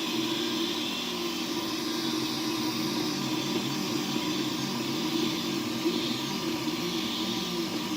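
3D printer running: its stepper motors whine in tones that keep shifting pitch as the print head moves, over a steady fan hiss.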